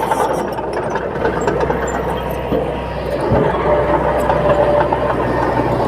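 Bulldozer's heavy diesel engine running steadily, with a brief low thud a little past halfway.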